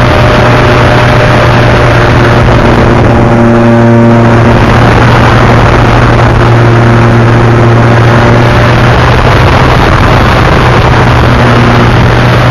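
Loud, steady engine drone under a dense hiss, with a brief cluster of higher tones about three to five seconds in.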